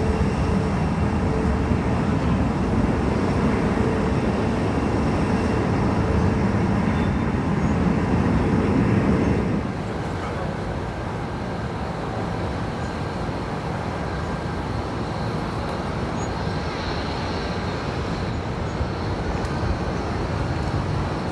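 Aircraft engines running, a steady loud low rumble that drops abruptly to a quieter steady rumble about nine and a half seconds in.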